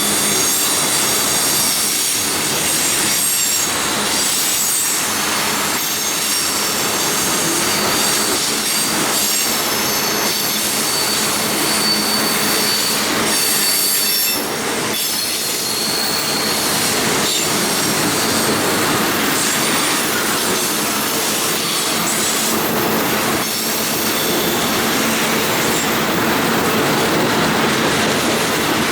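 Freight train cars rolling past close by: a steady rumble of wheels on rail with high-pitched squealing of steel wheels against the rails throughout.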